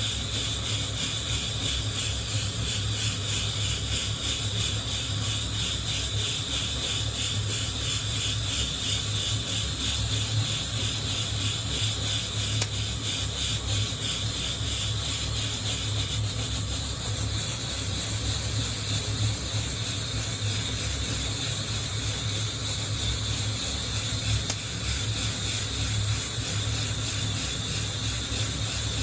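Coffee beans rattling and sliding against the wire mesh of a hand-held coffee roaster as it is shaken in a steady rhythm, over a steady low hum.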